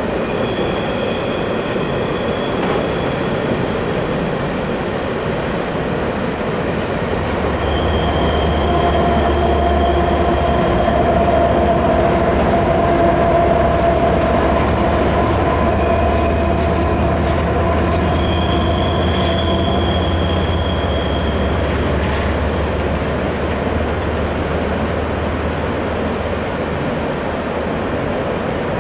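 Loaded coal train of hopper cars rolling across a steel trestle bridge, a steady rumble with high-pitched wheel squeals coming and going several times. From about seven seconds in, the diesel engine of a mid-train distributed power locomotive adds a low drone as it passes, and the sound is loudest while it is in the middle.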